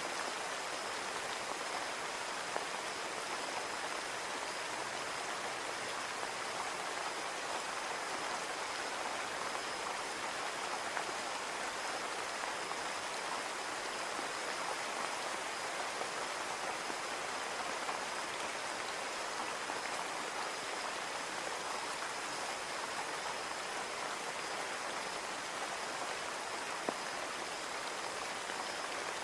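Steady rain falling on a window, an even hiss with a few faint drop ticks.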